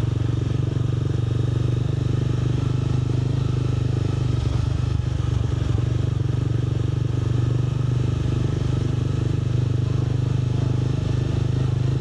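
Yamaha R7 sport bike's parallel-twin engine running at a steady pitch while riding, through an SC-Project aftermarket exhaust.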